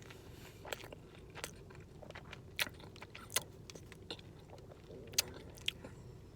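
A person chewing a mouthful of burrito, with faint, irregular crunchy clicks.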